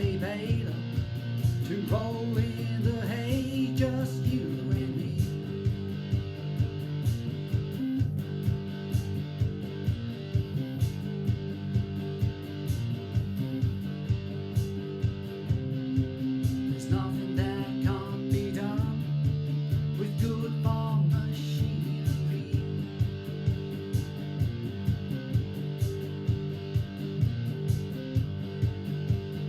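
Guitar instrumental break in a song: strummed chords over a steady beat of about two strokes a second, with single-note lead runs near the start and again around the middle.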